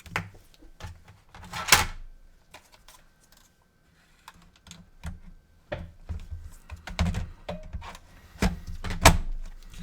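Irregular clicks and knocks of hands handling an opened PS4 console and its cables on a workbench, with a sharp knock about two seconds in and two more near the end.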